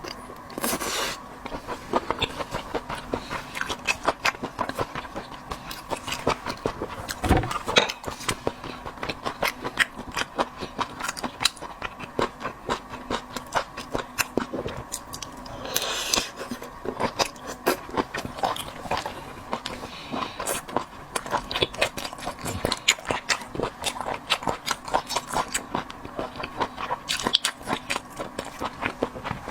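Close-up eating sounds: a person biting and chewing sea snail meat, with many small wet clicks and smacks, over a faint steady hum.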